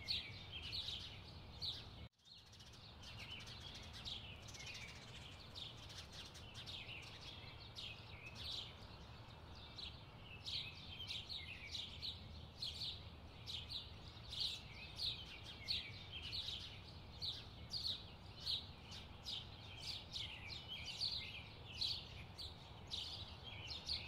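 Small songbirds chirping: faint, rapid, high chirps, a few each second, over a low background hum, with a brief gap about two seconds in.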